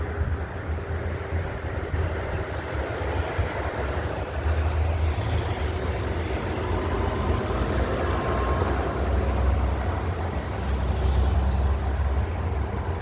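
Road traffic passing, trucks among it: a steady low rumble of engines and tyres.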